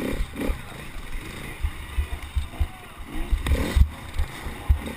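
Race vehicle running, its engine pitch rising and falling, with irregular low thumps of wind buffeting or jolts on the microphone. The loudest stretch comes about three and a half seconds in.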